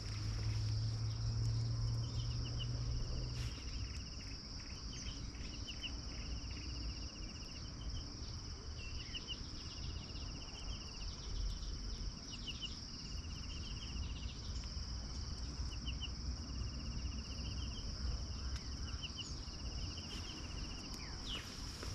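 Forest insect chorus: a continuous high-pitched buzzing drone, with short, rapid chirping trills repeating over it every second or so. A low hum sits underneath for the first three seconds or so.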